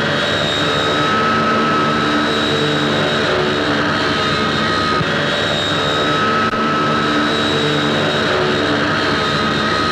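Small propeller aircraft engine droning steadily in flight, with a steady high whine over the engine noise.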